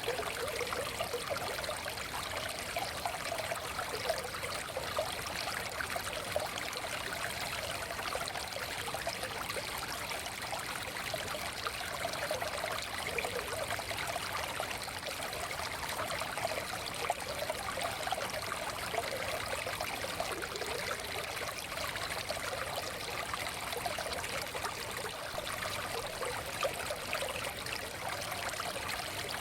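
A forest stream's water running and trickling steadily, with a constant babble.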